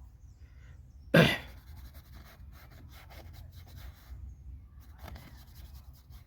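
A single sharp cough about a second in. Faint scratchy brush strokes on paper follow, over a low rumble of wind on the microphone.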